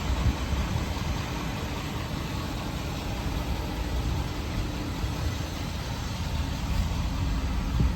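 Ford 6.7 liter Power Stroke V8 turbo diesel in a 2015 F-350 idling steadily.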